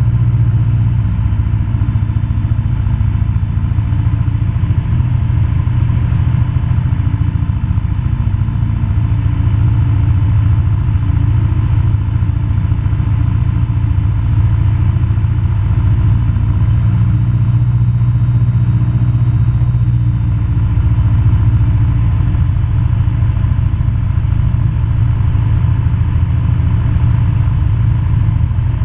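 Cessna 172 Skyhawk's piston engine and propeller running steadily on final approach, a loud low drone heard inside the cabin.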